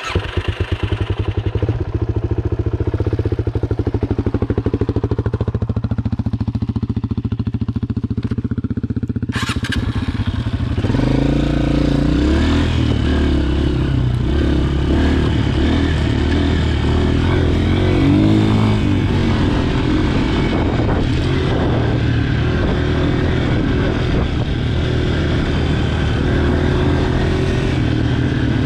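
Honda CRF230F dirt bike's single-cylinder four-stroke engine idling steadily, then about eleven seconds in pulling away and riding off, its revs rising and falling as it goes through the gears.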